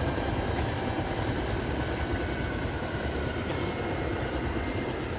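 Helicopter running with a steady, even noise of rotor and engine.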